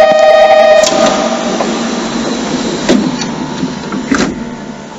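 Interior sound of a Hokushin Kyuko 7000 series electric train car, recorded on a phone: a steady pitched tone stops with a sharp clunk about a second in. A rumbling noise follows, with two sharp knocks about a second and a half apart.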